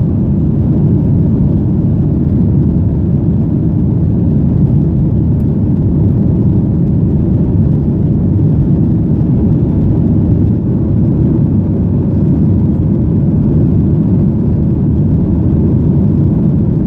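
Steady low rumble of a Boeing 737-800's CFM56-7B jet engines and airflow, heard inside the passenger cabin.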